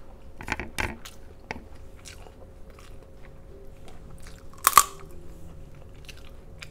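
Close-miked eating of garlic butter shrimp and crab: wet chewing and biting with scattered crisp clicks and crunches, the loudest a sharp double crunch a little before five seconds in.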